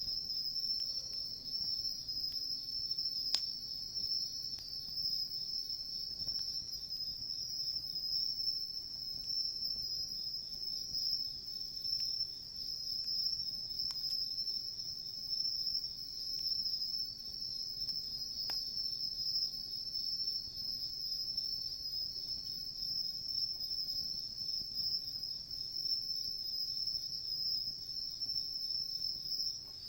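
Crickets trilling in a steady, unbroken high-pitched chorus, with a few faint crackles from a wood campfire.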